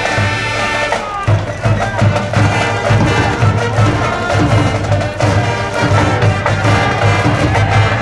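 High-school cheering band in the stands playing a baseball cheer tune, with wind instruments over a repeated bass-drum beat.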